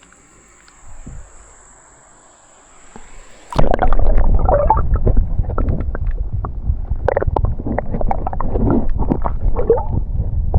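Quiet at first, then about three and a half seconds in, loud water gurgling and splashing around a kayak on a fast creek, with repeated knocks and a heavy low rumble.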